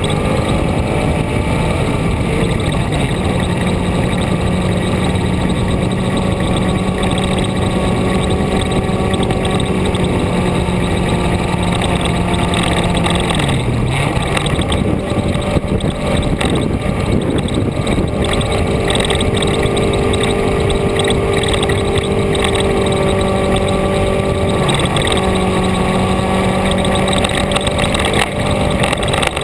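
A vehicle's engine running steadily under a constant wash of road and wind noise. About halfway through the engine note drops briefly, goes unsettled for a few seconds, then settles again at a steady pitch.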